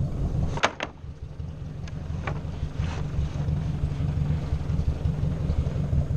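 Ford 600 tractor engine running steadily at a low rumble. Two sharp knocks come just under a second in, and a few lighter knocks follow around two to three seconds in.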